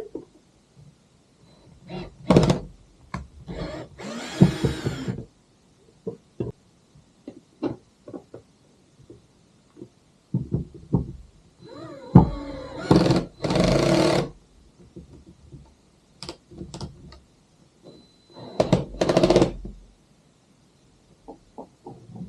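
Knocks and clunks of hands working on a kayak's rudder fittings, with three noisy bursts of about a second each, the loudest near the middle.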